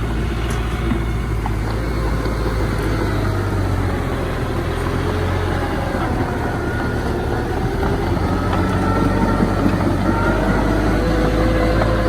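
Diesel engine of heavy earthmoving machinery running steadily, with a faint higher whine that drifts in pitch through the middle.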